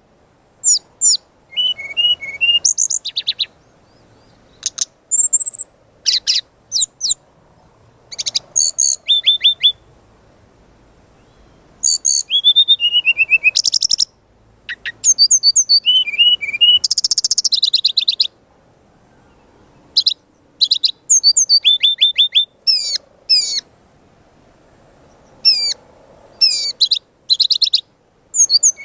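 Brown-chested jungle flycatcher (SRDC) singing hard, in quick phrases of high, sharp chirping and trilled notes separated by short pauses.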